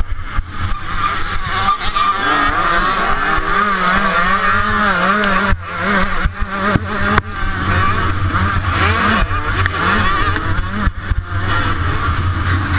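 125cc two-stroke motocross bike engine revving hard, its pitch rising and falling as the throttle and gears are worked, with brief throttle cuts about five and a half and seven seconds in. It is heard from a camera on the bike or rider, with a steady low rumble underneath.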